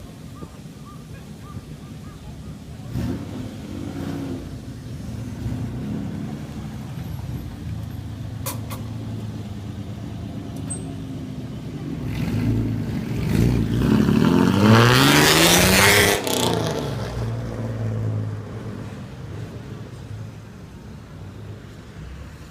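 Straight-piped exhaust of an old Toyota straight-six car, running steadily and then revving hard as it accelerates. The engine pitch climbs over a few seconds to a loud peak about two-thirds of the way through, drops off sharply, and settles back to a steady rumble.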